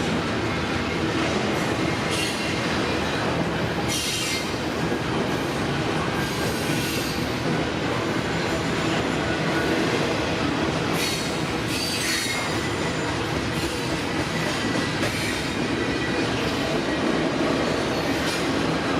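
Freight train cars rolling past: a steady rumble of wheels on rail, with brief high-pitched wheel squeals about four seconds in and again around eleven to twelve seconds in.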